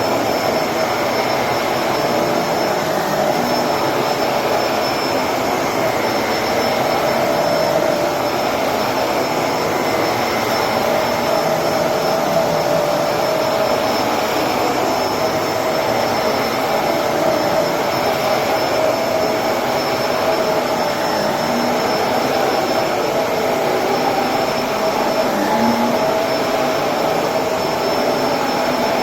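Electrolux Precision bagless upright vacuum cleaner running steadily, its motor carrying a thin high whine over the airflow noise.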